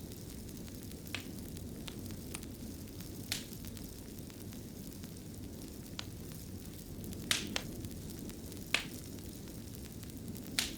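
Wood fire burning in a fireplace: a steady low rumble with scattered sharp crackles and pops, several louder pops in the second half.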